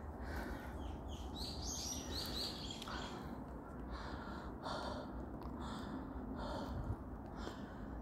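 Forest ambience: a bird sings a quick falling run of high notes about two seconds in, over a steady low rumble and a soft, regular swishing.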